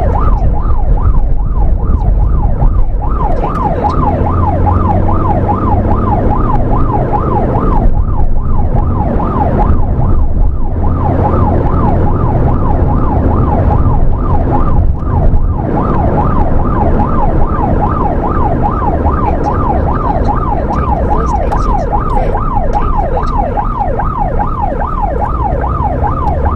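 Emergency vehicle siren sounding on a fast yelp, its pitch sweeping rapidly up and down several times a second, with a few brief breaks. Under it runs the vehicle's steady engine and road noise.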